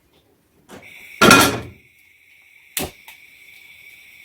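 Kitchen handling sounds: a single loud thud a little over a second in, then a couple of lighter clicks, over a steady high-pitched whine that starts at about the same time and carries on.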